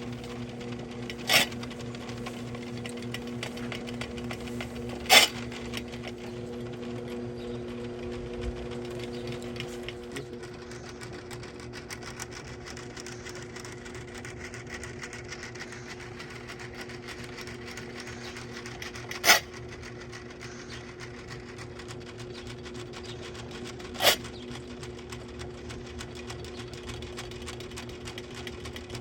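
Drain auger machine running with a steady hum and a fast, even rattle. Four short, sharp knocks stand out above it at irregular intervals.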